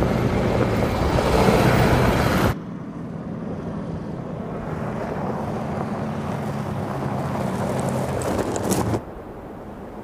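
Audi SQ7's V8 diesel engine running at steady revs, with tyres rushing over a gravel track. The sound drops sharply about two and a half seconds in and again near the end, and a few sharp ticks of gravel come just before the second drop.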